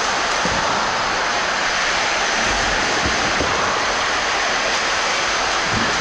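Steady rush of splashing water in a swimming pool, a dense even wash of noise without breaks.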